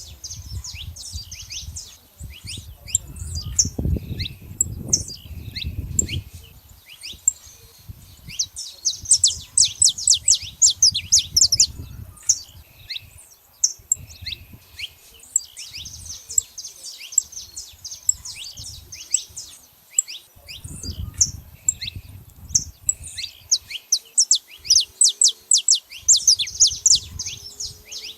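Several saffron finches chirping: many short, sharp, high notes, often in quick runs, with a low rumble underneath at times.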